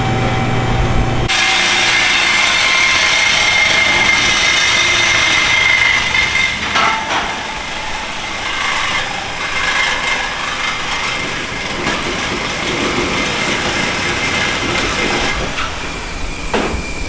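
A car engine idles for about a second, then is abruptly replaced by a power tool in a muffler shop. The tool runs steadily with a high whine and hiss, typical of a saw or cutting tool at work on exhaust piping, with a couple of short knocks along the way.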